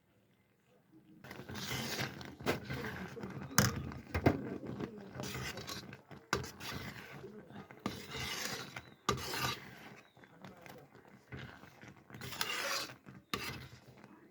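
Repeated rough scraping and rubbing strokes, starting about a second in and going on irregularly, with a few sharper knocks among them.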